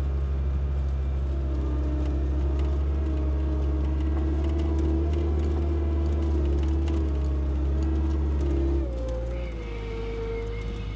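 Skid steer engine running steadily while plowing snow, with a whine over the engine note; about nine seconds in the engine note shifts and drops in level.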